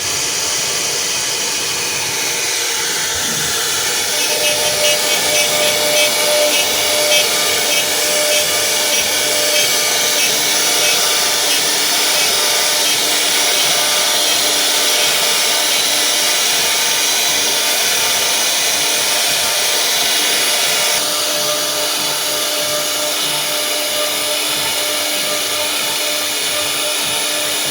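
CNC router spindle running and cutting, a steady loud hiss that shifts slightly about 21 seconds in.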